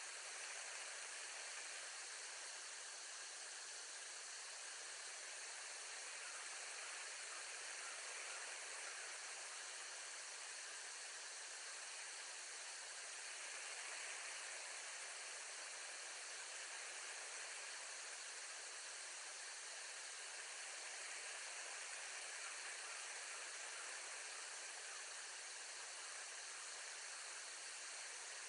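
Steady, even hiss of background noise with no calls or other events.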